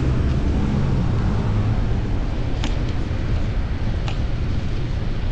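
Steady wind and road rumble on a chest-mounted action camera while riding a fixed-gear bicycle through city streets, with two short sharp clicks about two and a half and four seconds in.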